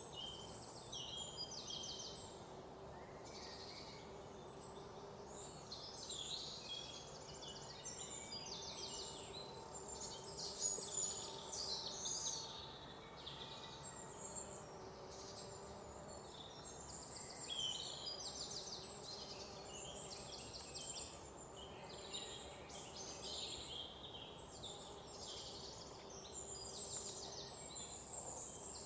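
Several wild birds singing at once in overlapping phrases of rapid trills and chirps, one song following another without a break, over a faint steady background hiss.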